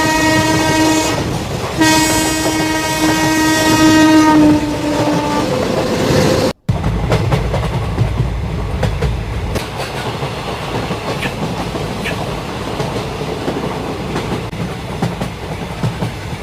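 Train horn sounding twice in long blasts, the first ending about a second in and the second running to about four and a half seconds before fading. After a sudden cut about six and a half seconds in, a train running on the rails, a steady rumble with the clatter of wheels over rail joints.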